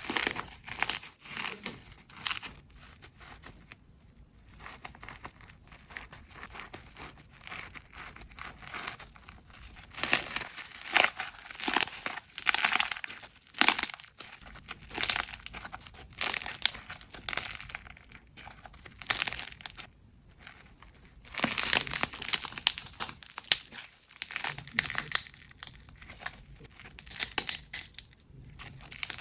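Slime being handled, squeezed and pressed, giving irregular crinkling and crackling sounds that come in denser bursts now and then.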